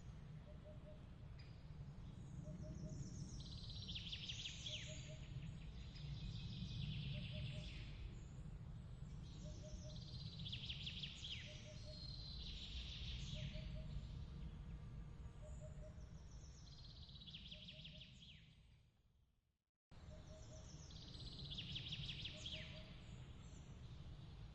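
Night ambience track: a steady low rumble under repeated high chirping trills every couple of seconds, with a faint soft double tick about every second. It fades out to silence and restarts abruptly near the end, the loop point of the track.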